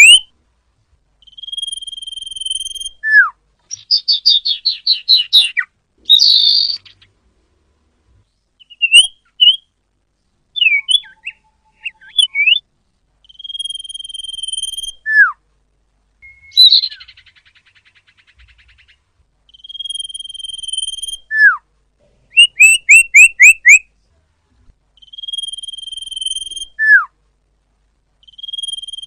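A sirpu (sirdung) songbird singing a repeated phrase. Each phrase is a long, even whistled note followed by a quick falling slur, and it comes about every six seconds. Rapid trills and chattering notes sit between the phrases.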